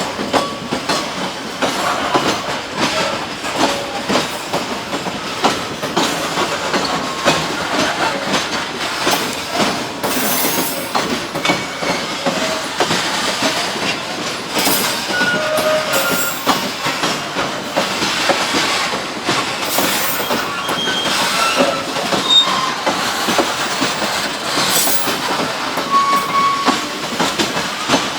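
Freight train wagons rolling past: steady clatter of wheels over rail joints, with short squeals from the wheels now and then.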